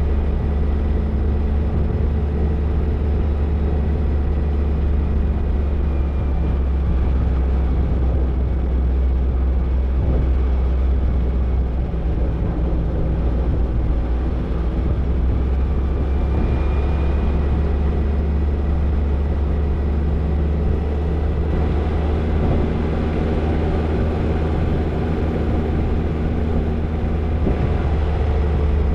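Toyota Tercel 4WD wagon being driven off-road: a steady engine drone over a strong low rumble, holding an even pitch with no big revs.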